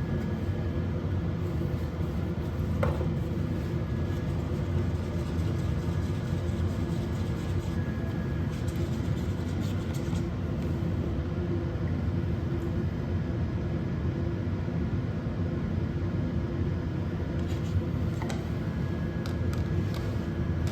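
A machine running steadily with a low, even rumble and a faint steady hum above it, with a few light clicks.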